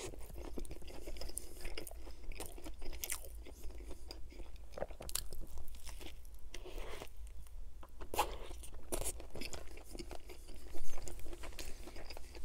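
Close-miked biting and chewing of a chicken sandwich, with crunching and wet mouth sounds. The crunches come as scattered short crackles, a few louder than the rest, the loudest near the end.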